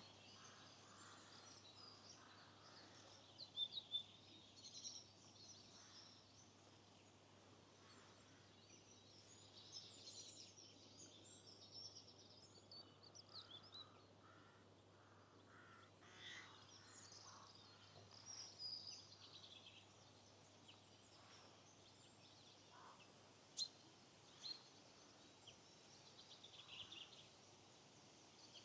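Faint birdsong: several small birds chirping and trilling on and off throughout, with a few brief sharper calls, over a low steady hiss.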